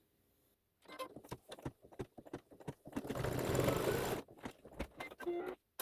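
Embroidery machine stitching a small detail, the gleam in an embroidered eye: rapid needle strokes that start about a second in, with a louder, rougher stretch of about a second midway.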